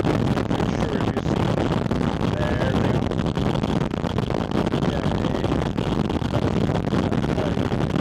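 Porsche 718 Spyder RS's naturally aspirated flat-six running steadily under way, heard as loud intake noise from a microphone mounted on the air intake, with wind rushing over it.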